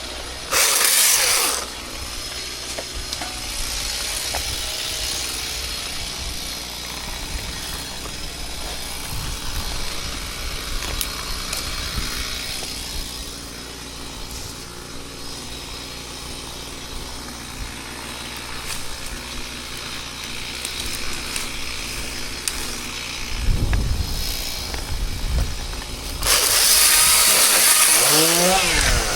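Chainsaw: a short loud burst about half a second in, then a long quieter stretch. Near the end comes loud cutting, with the engine's pitch swinging up and down as the revs change.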